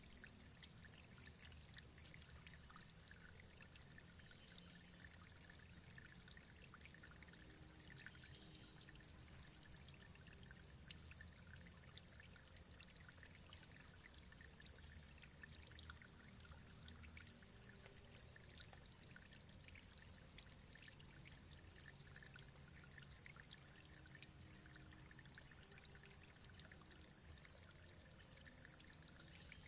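Faint, steady running water, unchanging throughout.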